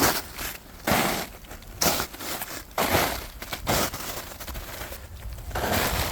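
Footsteps crunching on a mountain trail while walking downhill, roughly one step a second.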